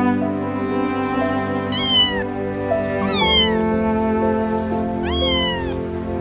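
A cat meowing three times, each meow high and falling in pitch, over slow, sad string music.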